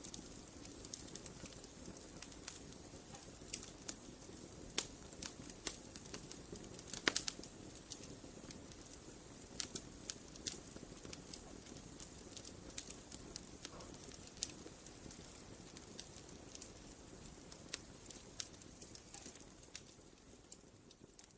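Campfire burning, with a low steady rumble and irregular sharp crackles and pops from the burning wood. One pop about seven seconds in is the loudest, and the sound fades down near the end.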